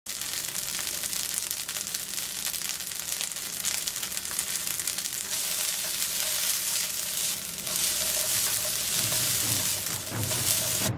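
Yakisoba frying in a hot pan: a steady, crackling sizzle with stirring, and a few low knocks near the end.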